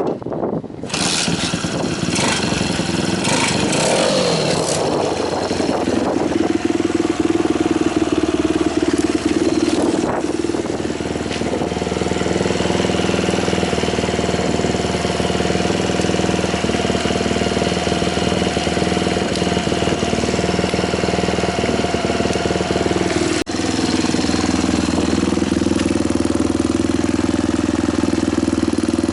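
Kawasaki KSR110's bored-up single-cylinder four-stroke engine, breathing through an aftermarket OVER muffler, starting about a second in. It revs briefly, settles into a steady idle, and is blipped once more a few seconds later.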